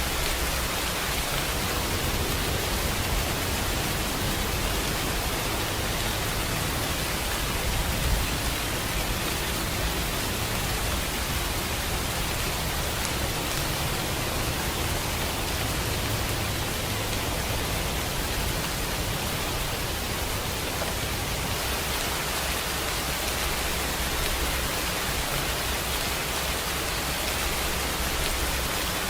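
Steady rainfall: an even, continuous hiss of rain with a low rumble underneath.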